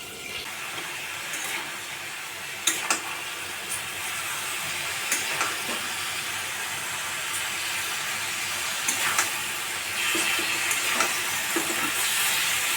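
Steady hissing from food cooking on a gas stove turned down to a low flame, with a few sharp clicks or pops; the hiss grows a little louder near the end.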